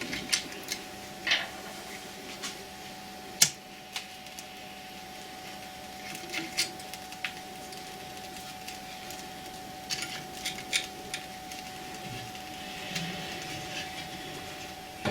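Scattered knocks, clicks and clatter of firewood being handled and laid into a cast-iron fireplace firebox, the sharpest knock about three and a half seconds in, over a faint steady hum.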